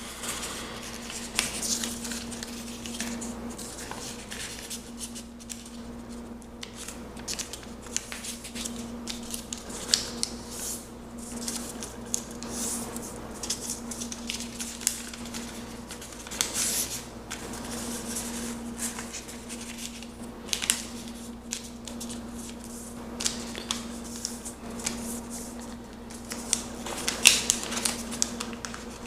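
Sheet of paper being folded and creased by hand: irregular rustles, crinkles and sharp creasing swipes, the loudest near the end, over a steady low hum.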